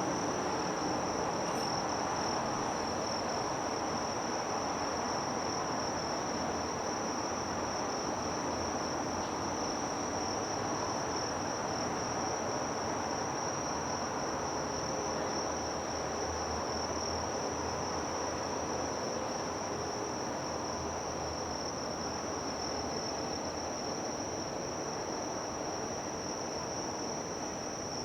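Insects chirring in one steady, unbroken high-pitched trill, over a low even background hum of harbour noise.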